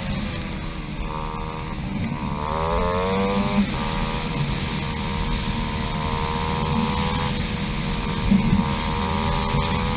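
KTM 500 EXC single-cylinder four-stroke dirt bike engine running on the trail: the engine note dips just after the start, climbs about two to three and a half seconds in as the throttle is opened, then holds fairly steady, with rushing wind noise throughout.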